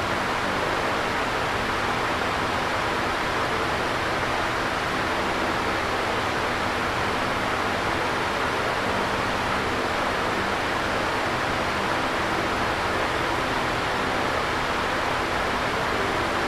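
Electric fan running steadily: an even, continuous rush of air, with a faint low motor hum underneath.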